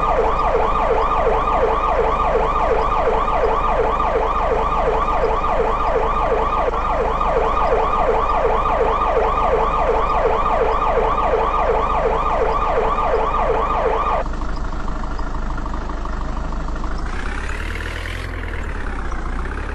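Police siren in a rapid yelp, about four cycles a second, cutting off abruptly about fourteen seconds in. A quieter sound follows, then one slow rise and fall in pitch near the end, over a low steady hum.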